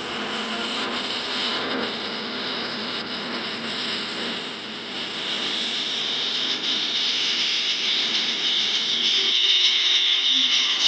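Jet engine noise from Blue Angels F/A-18E Super Hornets flying at a distance: a steady rushing roar whose high-pitched hiss grows louder in the second half, while the low rumble fades near the end.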